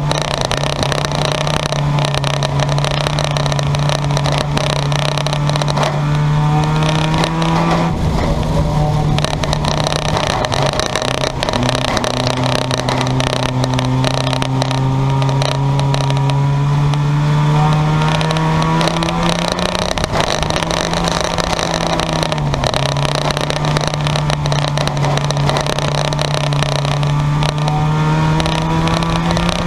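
Junk-yard race cars running at speed on the track: a steady engine drone that climbs slowly and drops off twice past the middle, with other cars' engines passing over it, sliding up and down in pitch.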